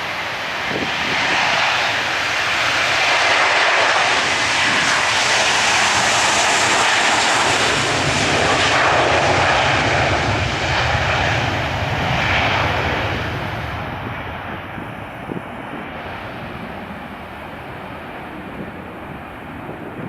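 Airbus A321-231's two IAE V2500 turbofan engines at takeoff power: the jet roar swells over the first few seconds, stays loud, and fades away in the last third as the aircraft passes and departs.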